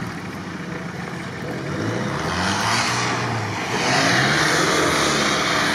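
Off-road 4x4 engines revving as the vehicles pull away through snow, the engine pitch rising about two to three seconds in. A rushing noise grows louder through the second half.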